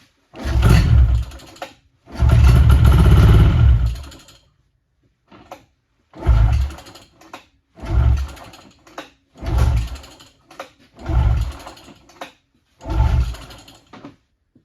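Yamaha V-Max triple snowmobile's three-cylinder two-stroke engine being pull-started by its recoil cord, seven pulls that crank it over without it running. The second pull, about two seconds in, goes on for about two seconds; the rest are short. It has sat unused, with fuel primed down the cylinders.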